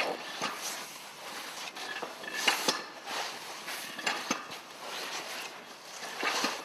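Scattered knocks and metallic clatter of firefighters moving through a school bus interior during a search, with a louder clatter about two and a half seconds in.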